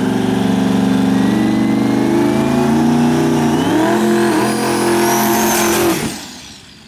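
Turbocharged diesel dragster engine running hard, with a turbo whistle rising steadily in pitch and a step in engine note about midway. The engine sound then fades away near the end.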